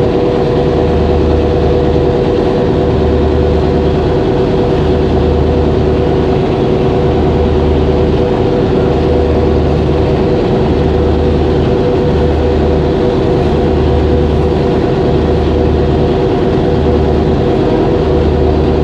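Boat engine running steadily at a constant loud drone, with a low throb pulsing about once a second, heard aboard the boat.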